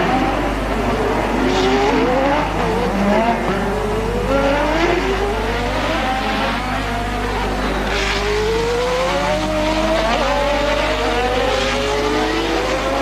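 1988 Formula One race car engines accelerating hard and changing gear: the pitch climbs, drops back at each upshift and climbs again, over and over.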